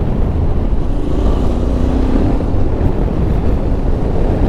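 Steady rush of wind on the microphone over the Yamaha Ténéré 700's parallel-twin engine running at a steady cruise.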